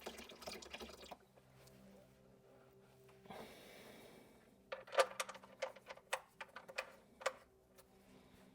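Hand work on the underside of an engine during an oil change: some handling noise, then a run of about eight sharp, irregular clicks and knocks over two and a half seconds, the loudest near the start of the run.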